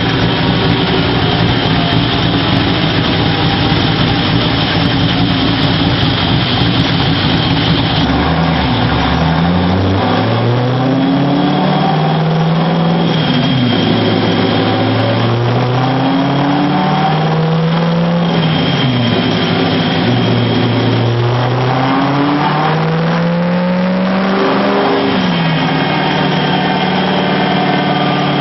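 Engine of a vehicle being driven: at first a steady heavy drone with a rough low rumble, then, from about a third of the way in, the engine note repeatedly rises in pitch and drops back every few seconds as the throttle is opened and lifted.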